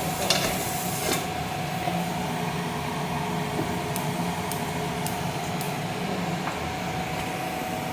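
A steady machine hum, with a few light clicks.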